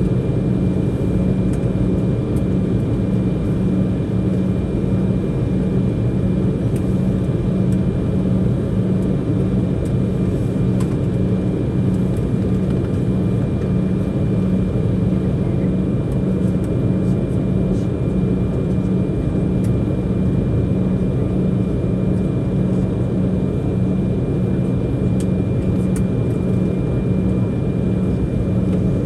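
Steady cabin noise inside an Embraer E190 airliner taxiing with its GE CF34-10E turbofans at idle: an even low hum with a faint high whine held over it.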